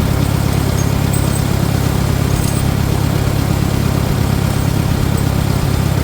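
Farmall 400 tractor's four-cylinder gasoline engine running steadily.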